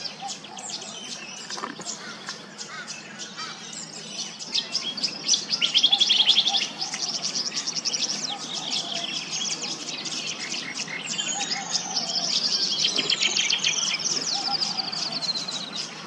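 Tawny grassbird singing: rapid high twittering notes, loudest about five to seven seconds in, then a long trill of quick notes that falls steadily in pitch over the last few seconds.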